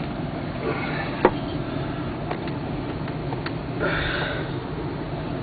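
Light clicks and scraping from a two-stroke snowmobile engine's piston and rings being pushed by hand into the cylinder, one sharper click about a second in. A short breathy rustle comes near the end.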